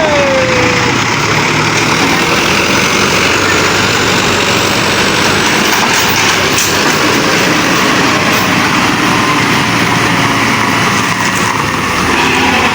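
A truck engine running steadily and loudly close by. A brief falling whistle-like tone sounds right at the start.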